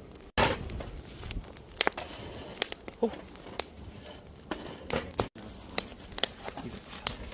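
Wood campfire crackling, with irregular sharp pops over a soft hiss; the sound cuts out for an instant twice.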